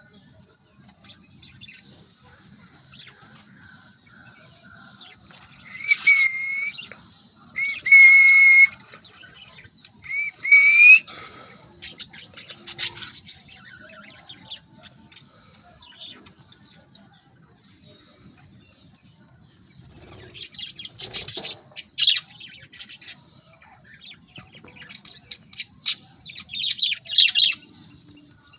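Cockatiel calling: three loud, ringing calls about two seconds apart, starting some six seconds in. Later come bouts of scratchy chattering.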